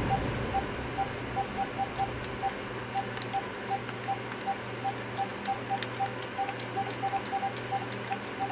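Cordless phone handset keypad beeping as its buttons are pressed one after another: short single-pitch beeps, two or three a second at an uneven pace, with faint clicks of the keys. This is a button test on a handset whose keys have just been cleaned and repaired.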